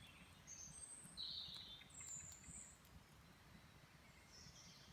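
Faint birds chirping, a few short high notes, over a quiet outdoor background.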